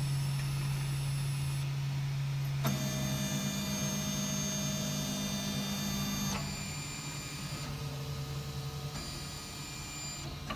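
FDM 3D printer printing PLA: its stepper motors whine in steady pitched tones that switch abruptly to new pitches several times as the print head changes moves, over a steady low hum.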